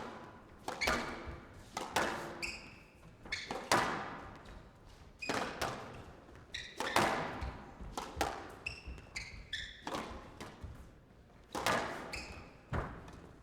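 Squash rally: the ball cracking off rackets and walls about once a second, each hit echoing in the enclosed court, with short squeaks of court shoes on the floor between shots.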